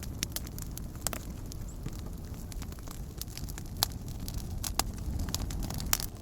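Wood campfire crackling: irregular sharp pops and snaps, a few louder ones in the second half, over a steady low rumble.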